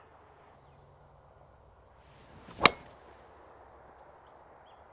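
A golf club strikes the ball on a full tee shot: a faint swish of the downswing, then one sharp, loud crack of impact about two and a half seconds in.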